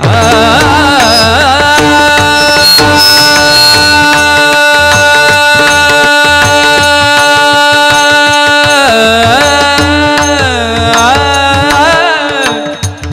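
Devotional kirtan music: a singer holds one long note, wavering at first, then steady, bending down and back up twice in the second half, over a steady drone, with tabla and pakhawaj strokes that grow stronger near the end.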